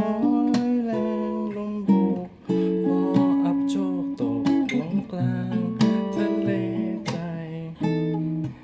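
Acoustic guitar played without vocals, strummed chords mixed with picked single notes.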